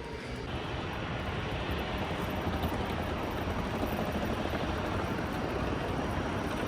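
A steady rushing noise, swelling slightly about half a second in and then holding even.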